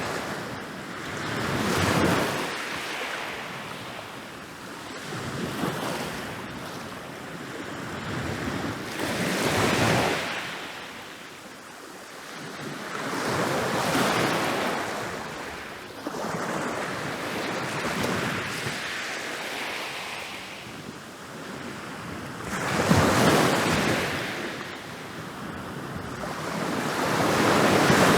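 Ocean waves rolling in and crashing on a beach: several rushing surges that swell and fade every few seconds, the loudest near the end.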